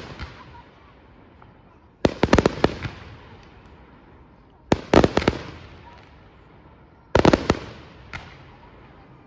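Fireworks display: aerial shells bursting in volleys, each a quick string of sharp bangs with a trailing echo. The volleys come about every two and a half seconds, with a single bang near the end.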